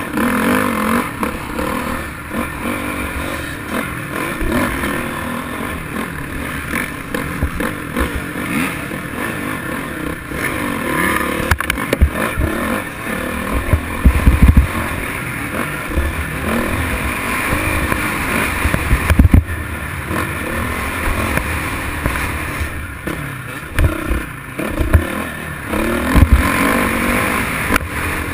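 Motocross dirt bike riding, heard as a steady, noisy rush, with several heavy low thumps about halfway through and near the end.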